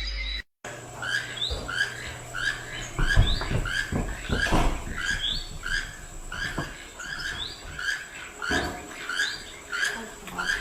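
A small bird chirping over and over, short gliding chirps at about two a second, with a few dull thumps in the middle and near the end.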